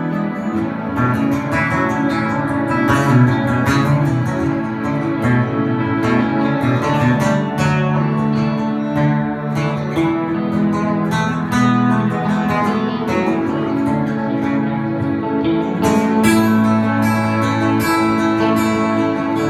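Instrumental break of a live trio playing a country-folk song: strummed and picked acoustic guitar, without vocals.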